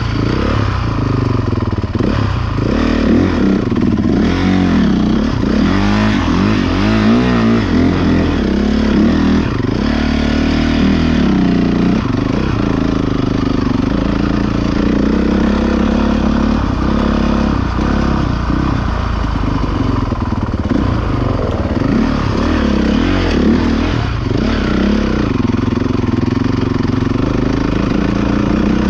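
Several motocross bike engines revving, their pitches overlapping and repeatedly rising and falling as the throttles open and close.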